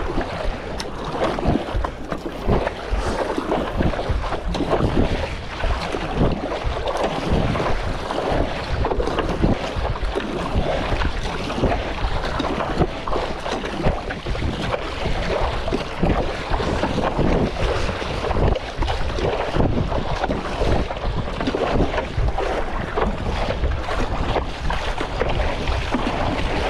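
Strong wind buffeting the microphone over choppy sea water, with irregular splashing from a stand-up paddleboard and its paddle.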